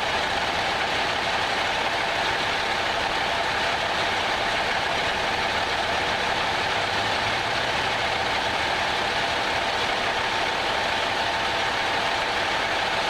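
Steady drone of an idling vehicle engine, even and unchanging, with a faint constant hum.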